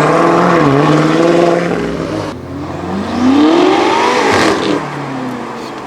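Modified car engines accelerating away. One engine pulls with a brief dip in pitch, as at a gear change, and is cut off abruptly about two seconds in. Another engine then revs up sharply, rising in pitch, and falls away as it goes past.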